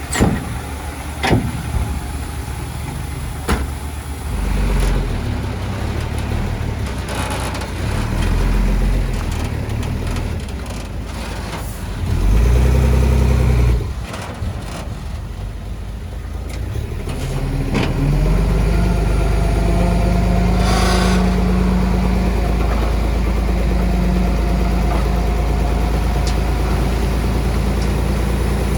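Heavy earthmoving machinery's diesel engine running, its low rumble rising and falling, with a few sharp knocks in the first few seconds and a louder surge about halfway. It settles into a steady drone for the last ten seconds.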